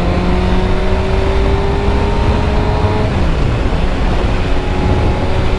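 Suzuki GSX-R 600 inline-four motorcycle engine running while riding, its note climbing slowly and then dropping about three seconds in, with a heavy rumble of wind on the microphone.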